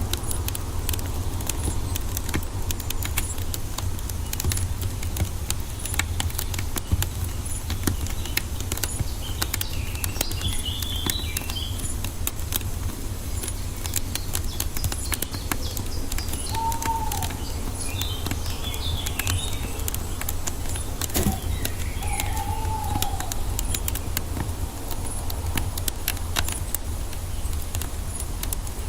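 Wood fire crackling with a steady low rumble beneath. Birds call over it: a burst of chirps about a third of the way in and again past the middle, and short whistled calls twice in the second half.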